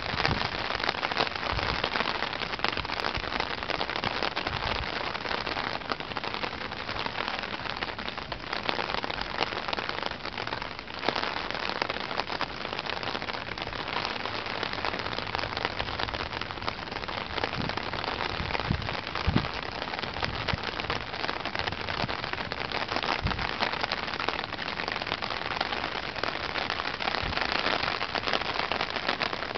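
Heavy rain falling steadily in strong wind ahead of a typhoon, with a few low gusts buffeting the microphone past the middle.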